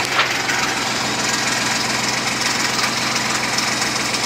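Gator utility vehicle's engine running steadily.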